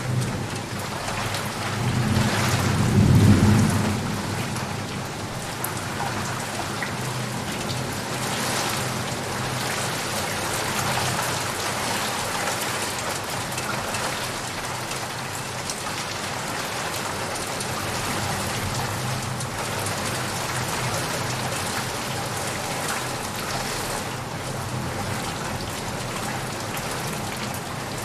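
Steady rain falling, with a roll of thunder swelling and fading a couple of seconds in.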